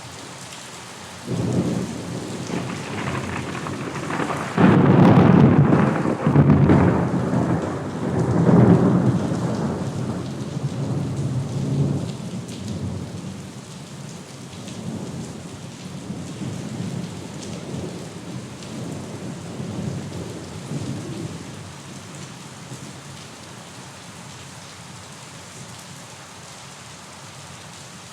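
Steady rain with a thunderclap rolling through it. The thunder breaks in suddenly about a second in and is loudest a few seconds later. It then rumbles on more and more faintly and dies away well before the end, leaving the rain alone.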